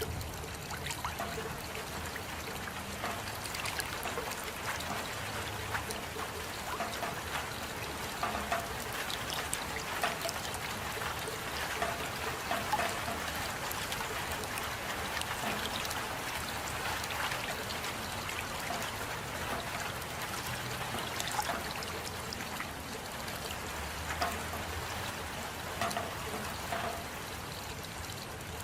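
Steady rain with water trickling, many separate drops heard among an even hiss.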